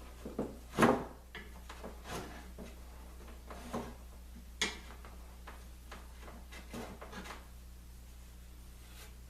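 Scattered knocks and short scrapes of a hand tool on wood, the loudest about a second in and again just before five seconds, as dried glue squeeze-out is scraped off the laminated plywood.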